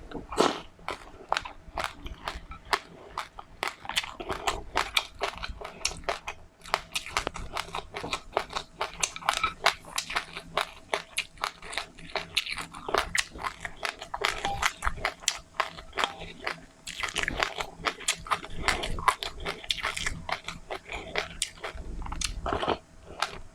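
Close-up chewing of crunchy seeds: a dense, continuous run of small sharp crunches and crackles, several a second.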